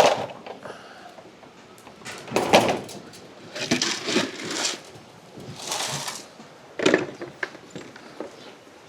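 Grain feed being handled: a series of short, hissing pours and knocks, about five in all, each lasting around a second, with brief pauses between them.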